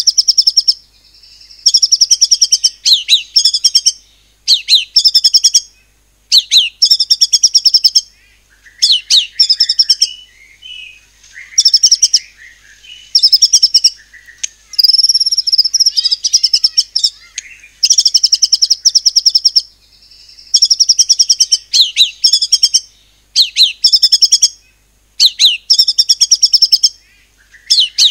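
White-rumped shama (murai batu) singing loudly in rapid-fire 'nembak' bursts, each a fast string of sharp whistled notes lasting a second or two, repeated about a dozen times with short pauses, its phrases imitating cungkok and cililin calls.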